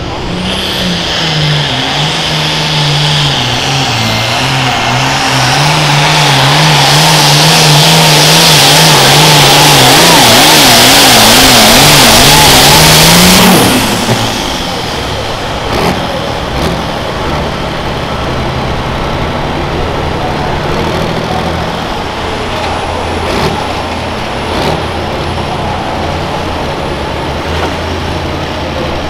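Super Farm pulling tractor's turbocharged diesel engine at full throttle on a pull, growing louder for about thirteen seconds and then cutting back suddenly. After that a lower, steadier engine sound runs on with a few sharp clicks.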